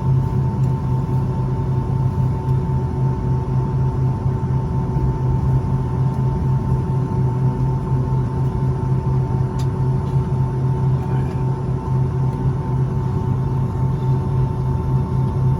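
Steady cabin drone inside a Boeing 757-200 on the ground after landing: a strong low hum with two thin, steady whines above it, unchanging throughout.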